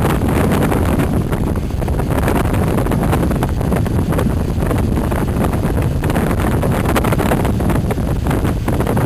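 Super Marine high-speed passenger boat under way at speed: a steady low engine-and-hull rumble with rushing wind buffeting the microphone.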